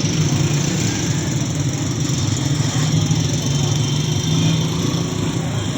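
A motor vehicle's engine running steadily at low revs, mixed with the steady hiss of heavy rain.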